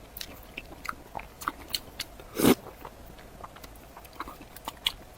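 Close-miked mouth sounds of a person eating soft fish fat: scattered small wet chewing clicks and smacks, with one louder bite about two and a half seconds in.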